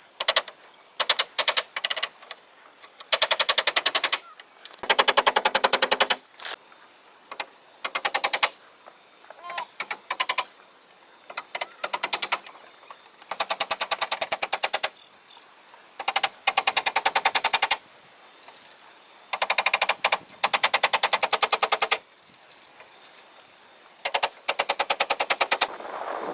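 A power tool rattling in about a dozen short bursts. Each burst is a fast, even run of clicks lasting about a second, separated by short pauses.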